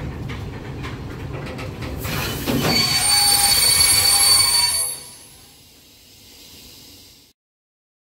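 Freight train of open wagons rolling past with a low rumble, then a loud, high-pitched metallic wheel squeal from about two seconds in that dies away after about three seconds. The sound cuts off about seven seconds in.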